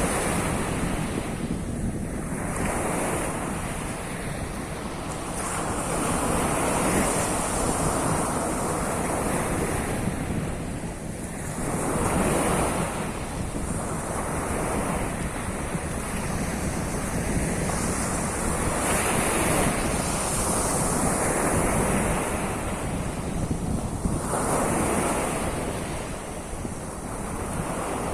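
Sea of Azov waves washing onto the shore, a continuous surf noise that swells and eases every few seconds, with wind rumbling on the microphone.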